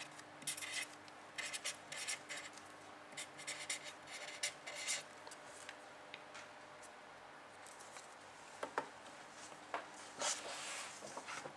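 Writing: a pen scratching across a writing surface in quick clusters of short strokes for the first five seconds, then sparser strokes and a longer scrape near the end.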